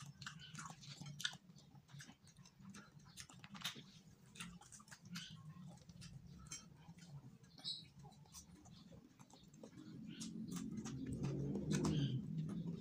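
Close, wet chewing and lip-smacking clicks of a person eating rice by hand, over a steady low hum. A low rumbling sound swells near the end.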